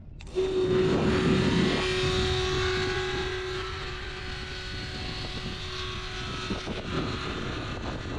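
Tractor engine starting suddenly and running with a steady pitch, loudest in the first second and a half and then settling to an even run.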